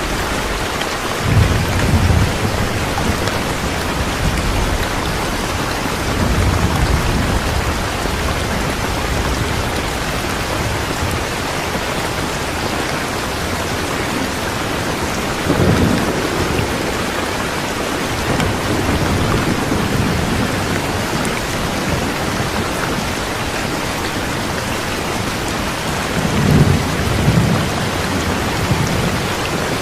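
Steady heavy rain, with low rolls of distant thunder rumbling up briefly four times.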